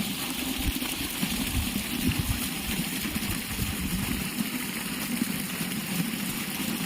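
Mahindra Yuvraj tractor's single-cylinder diesel engine running steadily at the PTO, driving a 3x3 centrifugal water pump, with a steady rush of pumped water.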